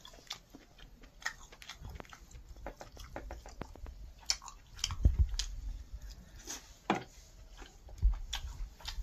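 A person biting and chewing a piece of chicken curry with the mouth close to the microphone: irregular wet smacks and small clicks. There are a few louder low thumps about halfway through and again near the end.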